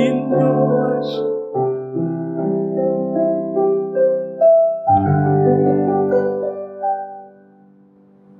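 Piano accompaniment playing the closing chords of a hymn after the last sung line: a few sustained chords, each left to ring, dying away near the end.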